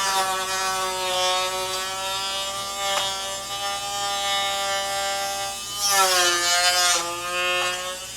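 Small handheld electric power tool running steadily with a high motor whine, switched on abruptly and cut off suddenly at the end. About six seconds in its pitch sags and it gets noisier for a moment, as if the tool is pressed into the work under load.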